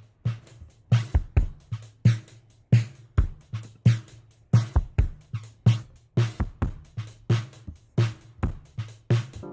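A drum beat playing on its own: a steady pattern of deep kick drum hits and sharper snare- and hat-like hits, several strokes a second, with no other instruments.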